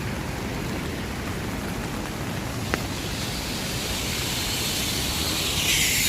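Steady rain hiss over the low rumble of city traffic, with one short sharp click about midway. Near the end a louder hiss of tyres on the wet road swells up as a vehicle passes.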